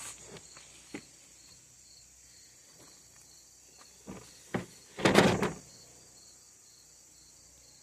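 Hands working on a chainsaw's housing and parts: a few light clicks and knocks, then a louder scraping clatter about five seconds in.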